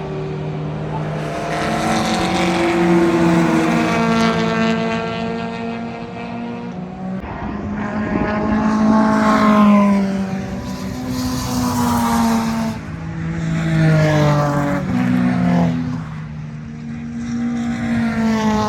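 Several race cars passing one after another at speed, engines revving up and falling back through the gears. The cars are loudest about three, nine and a half, and fourteen seconds in.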